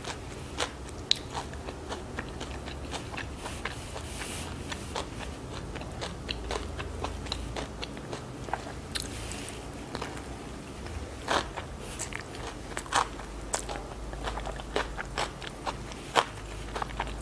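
Chewing and biting a fresh Vietnamese spring roll: irregular crisp crunches of raw leafy vegetables in rice paper, with wet mouth clicks.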